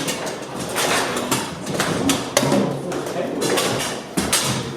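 Bonzini table football in play: a run of irregular sharp knocks and clacks as the ball is struck by the rod players and hits the table walls.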